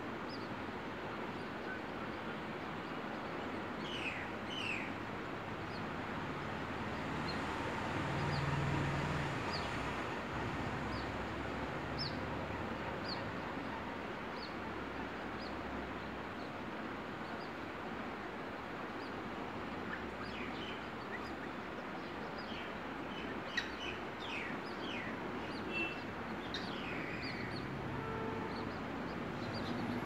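Birds chirping on and off, short high calls scattered through the clip and bunched together about four seconds in and again in the last third, over a steady hiss of outdoor background noise. A low rumble swells and fades about eight to ten seconds in.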